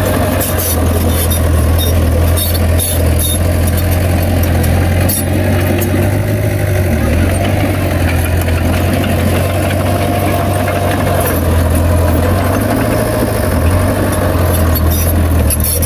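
Bulldozer's diesel engine running steadily with a deep, constant hum, with frequent short rattles and clicks over it.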